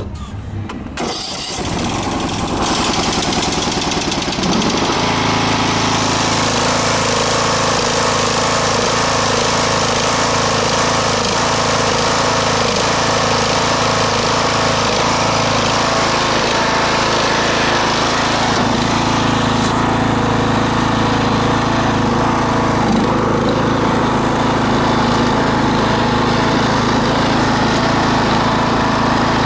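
Poulan lawn tractor engine being started, catching within the first few seconds, then running steadily.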